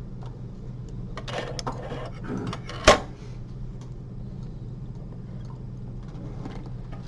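Steady low hum with scattered small clicks and rustles of surgical instruments being handled while suturing, and one sharp click just under three seconds in.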